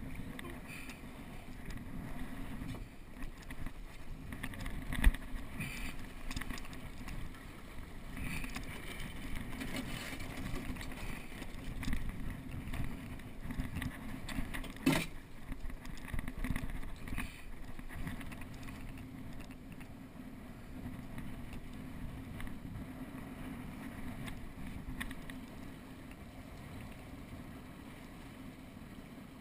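Water rushing along a small catboat's hull under sail, a steady wash with wind on the microphone. Sharp knocks about five seconds in and again near the middle, likely from the boat's gear.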